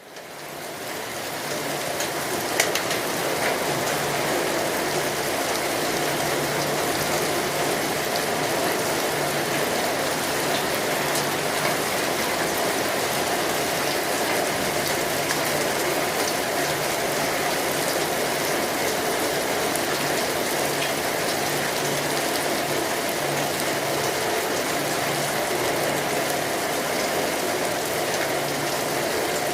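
Steady rainfall, a dense even hiss of drops, fading in over the first couple of seconds. One sharp tick stands out about two and a half seconds in.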